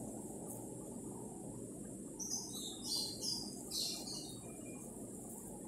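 A bird chirping in the background: a quick run of short, high chirps about two seconds in, over a steady low background noise.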